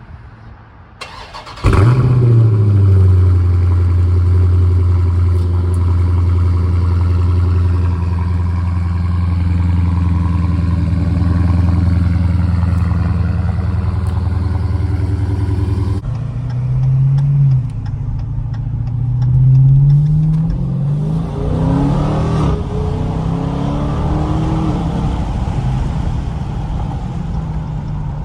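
Dodge Challenger Scat Pack's 6.4-litre HEMI V8 on its stock exhaust, mid mufflers still fitted. It starts about two seconds in with a short flare and settles into a steady idle. After a cut it is revved several times, rising and falling, between returns to idle.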